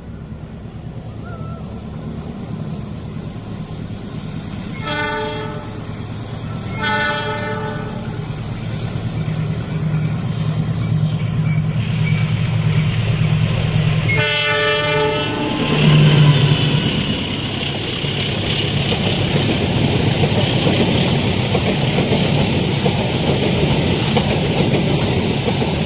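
Diesel locomotive sounding its multi-tone horn three times as it approaches, two short blasts and then a longer one. Its engine grows louder, is loudest as it passes, and then a long train of carriages rumbles steadily by on the rails.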